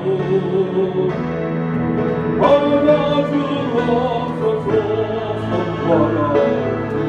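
A hymn sung with instrumental accompaniment: a held sung melody over sustained chords that change every second or two.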